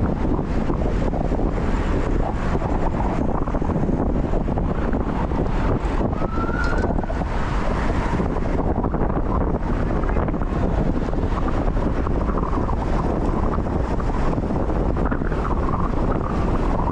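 Wind buffeting the microphone of a camera on a moving bicycle, a steady rumble. A short rising squeak sounds once about six seconds in.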